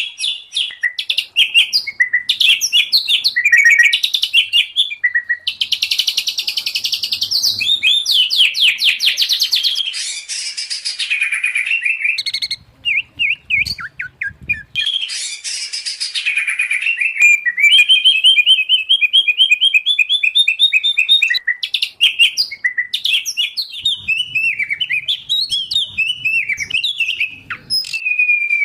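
Songbirds singing without pause in a mixed recording of white-rumped shama, oriental magpie-robin and greater green leafbird. It is a fast, varied stream of rapid trills, buzzy rattles, whistles and sliding notes, with a short thinner stretch about halfway through.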